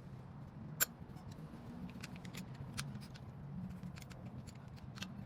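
Irregular metallic clicks and clinks of hand tools working on the alternator bolts, with one sharper clink about a second in. A low steady hum runs underneath.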